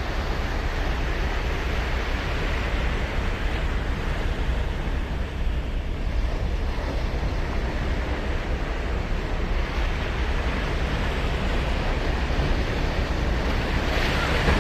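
Ocean surf breaking and washing up the beach: a continuous wash that swells louder a few times, most strongly near the end.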